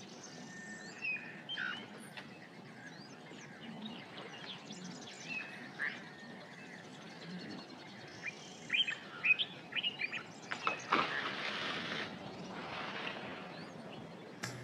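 Wild birds chirping and calling in short scattered notes, busiest about nine seconds in, over a soft outdoor background. Two spells of hissing noise follow, the first about eleven seconds in.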